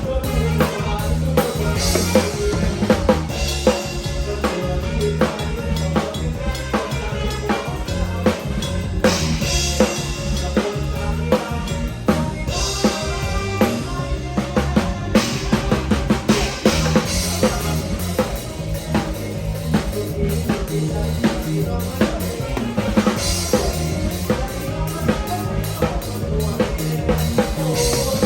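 Drum kit played with a band, a steady driving beat of kick drum and snare over a bass line, in a fast medley.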